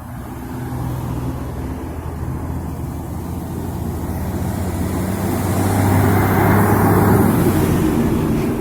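A heavy vehicle's diesel engine running as it passes, getting steadily louder to a peak about six to seven seconds in, with road and tyre noise rising along with it.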